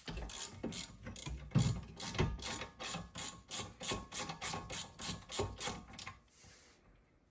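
Ratchet wrench clicking in a steady rhythm, about three to four clicks a second, as it spins out a rear brake caliper bolt. The clicking stops about six seconds in.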